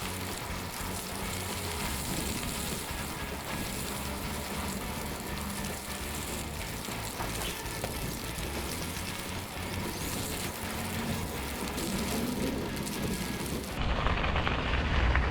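Bicycle tyres rolling along a trail while riding, a steady crackly rushing noise; about fourteen seconds in it turns into a lower rumble.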